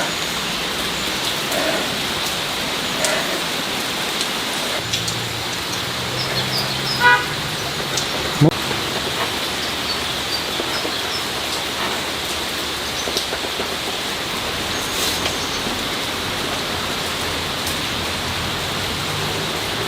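A steady, even hiss throughout, with a short pitched toot about seven seconds in and a single sharp knock just after.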